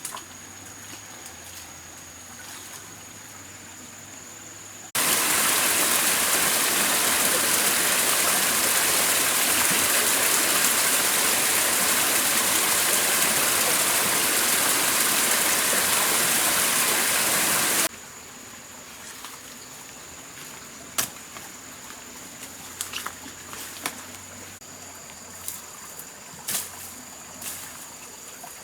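Loud, steady rushing water, such as a stream or small waterfall close by, cutting in abruptly about five seconds in and cutting out just as abruptly some thirteen seconds later. Before and after it there is a quieter background with a steady high-pitched whine and a few light clicks and taps.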